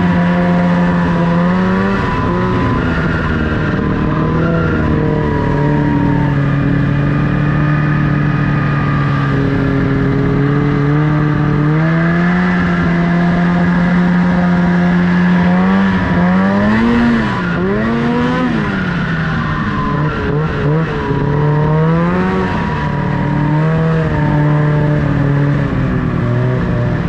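Snowmobile engine running steadily under throttle, its pitch stepping up and down, with several quick swings up and down past the middle.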